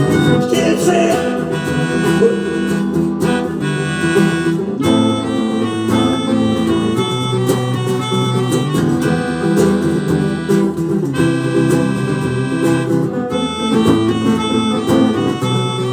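Live rock band playing an instrumental break between verses: guitars carrying a melody of short, repeated high notes over a steady bass and rhythm accompaniment.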